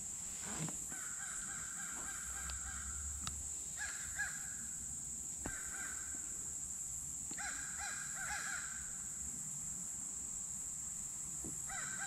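A bird calling in short repeated notes, two to four at a time, over a steady high-pitched hum.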